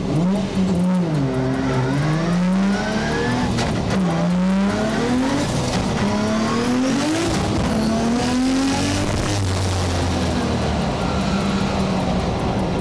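Nissan RB26 straight-six engine in an E92 M3 drift car revving hard. Its pitch climbs and drops back several times in the first half, then holds steadier near the end.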